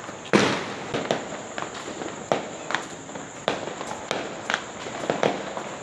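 Fireworks and firecrackers going off all around: a rapid, irregular series of sharp bangs and pops, some near and some farther off, over a continuous crackle. The loudest bang comes about a third of a second in.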